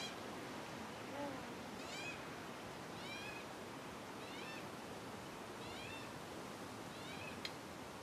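A bird calls again and again: short, pitched calls that arch up and back down, in runs of about one a second. A training clicker clicks once near the end.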